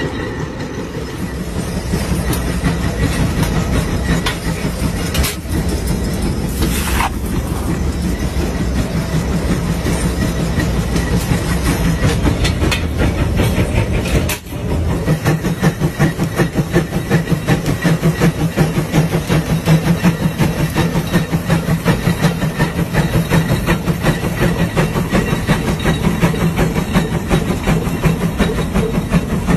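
Old tractor engine running with a fast, even chugging beat. About halfway through the sound dips briefly, then comes back with stronger, more distinct pulses.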